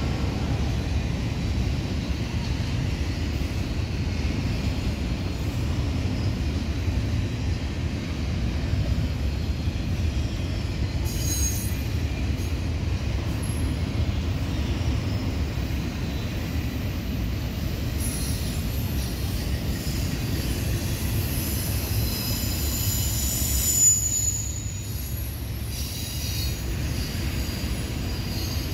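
Norfolk Southern double-stack intermodal train rolling past: a steady low rumble of the container cars' wheels on the rails, with a thin high wheel squeal coming and going, strongest with a brief louder moment about 24 seconds in.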